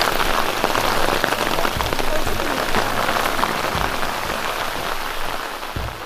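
Heavy rain falling steadily, a dense patter of drops that eases a little near the end.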